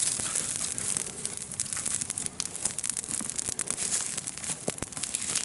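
Wood campfire burning, a steady hiss with many small, sharp crackles and pops.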